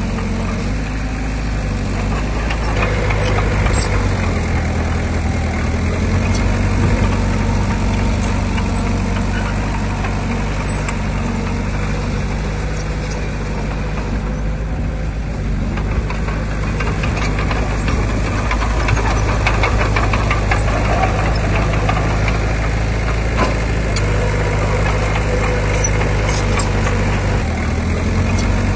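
Heavy diesel engine of earthmoving machinery running under varying load, its pitch stepping up and down several times, with faint rattles and clicks over it.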